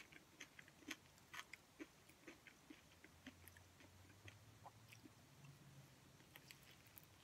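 Faint chewing and biting of a crispy oven-baked chicken egg roll: irregular small crunches and mouth clicks.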